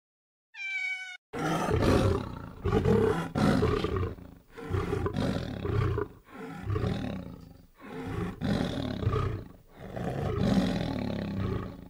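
A tiger roaring over and over: about six low, rough roars, each one to two seconds long, with short pauses between them. Just before them comes one brief high-pitched cat meow.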